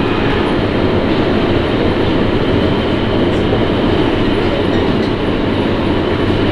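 Sapporo Municipal Subway Namboku Line rubber-tyred train running steadily through the tunnel between stations, a continuous even rumble and rush of running noise.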